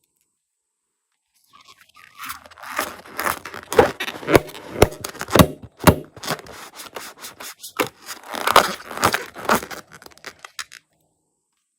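Slime being handled close to the microphone: a dense run of crackling clicks, squishes and scrapes. It starts about a second and a half in and stops about a second before the end.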